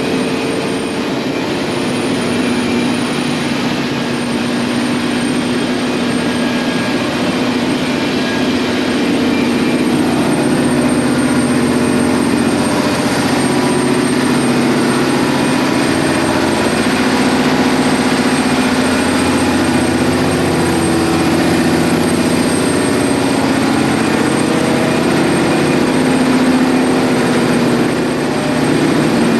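Loud, steady drone of heavy ship's machinery aboard a lake freighter, a dense noise with low humming tones that shift slightly.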